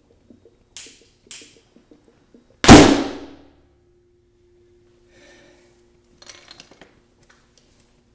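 Oxyhydrogen (HHO) gas igniting in a bubbler: two short hisses, then a single really loud, sharp blast about two and a half seconds in that rings out briefly, followed by faint rattling. The bubbler's blow-off valve held and released the blast as designed.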